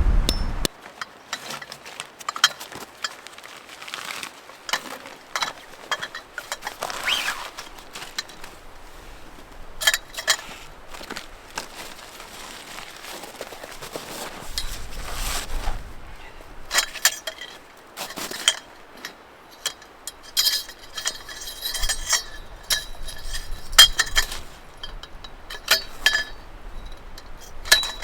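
Scattered small clicks and clinks of glass and metal kitchenware being handled, with a few short ringing clinks near the end.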